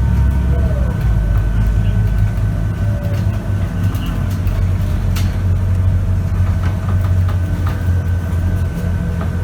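Scania K94UB city bus's diesel engine running under way, heard from inside the cabin as a steady low rumble, with a thin steady high whine and scattered light rattles.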